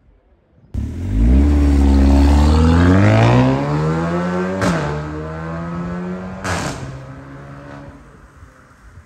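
A motor vehicle engine accelerating hard. It comes in abruptly about a second in and climbs steadily in pitch. The pitch then drops sharply twice, each time with a click, and the engine fades away near the end.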